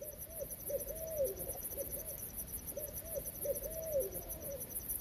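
An owl hooting in rhythmic phrases of low, arched hoots, two of the phrases ending in a longer downward slur. A steady, finely pulsing high-pitched hiss runs underneath.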